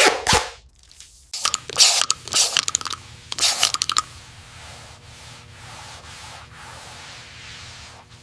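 Mechanical clicking and rattling in dense bursts, like a hand tool at work, followed by a steady noise with a faint hum.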